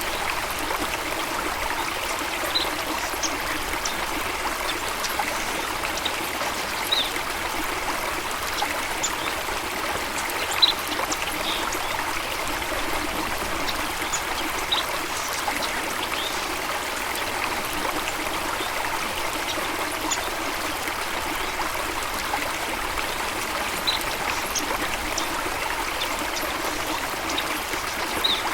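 Stream of water running steadily, with brief high notes every few seconds standing out above the rush.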